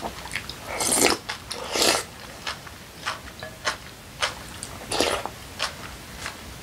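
Close-up eating sounds: chewing and lip smacking of a mouthful of kimchi bibimbap, with a wooden spoon scraping and clicking in a glass bowl. There are louder scrapes about a second in, at two seconds and near five seconds.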